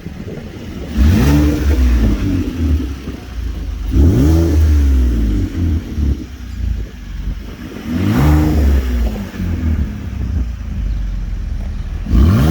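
Car engine with its exhaust resonator missing (it fell off), revved from idle three times about four seconds apart. Each rev rises sharply in pitch and falls back to idle, and a fourth rev starts right at the end.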